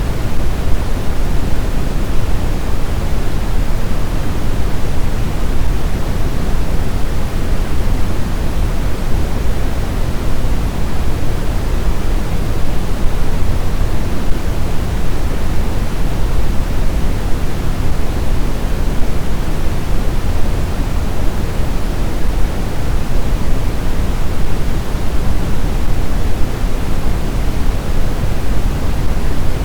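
Blizzard wind ambience: a steady, dense rushing noise, heaviest in the low end, with no gusts rising or falling and no howling tones.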